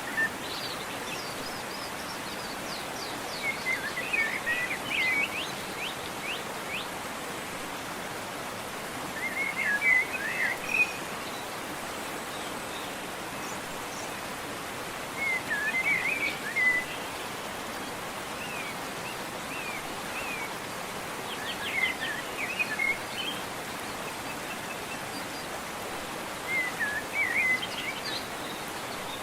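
Steady rush of a waterfall, with a songbird singing short warbled phrases about every five or six seconds over it.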